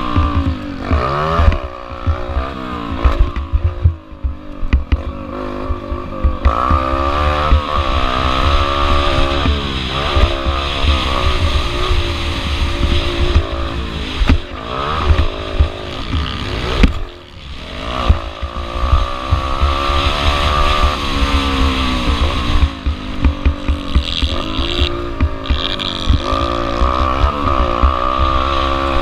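Small four-stroke pit bike engine, a Yamaha TT-R125L, revving up and dropping back over and over as it is ridden hard through the gears, with a heavy low rumble and thumping on the microphone underneath.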